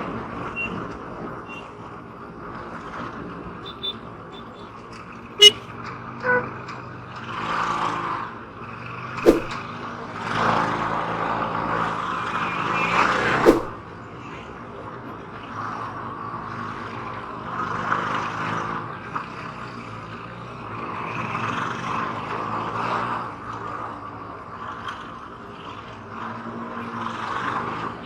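Motorcycle on the move in road traffic: a steady engine hum under rushes of wind and passing vehicles that swell and fade, with a few short sharp sounds over it.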